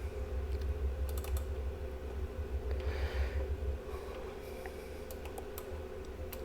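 Scattered light clicks and taps over a steady electrical hum, with a short rustle about halfway through.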